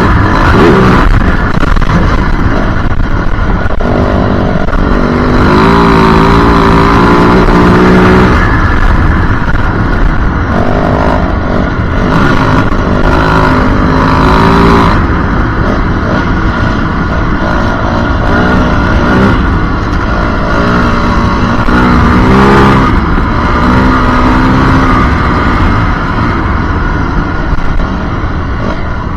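Yamaha WR450F's single-cylinder four-stroke engine running under load as the dirt bike is ridden, its pitch rising and falling again and again with the throttle. It eases off a little near the end.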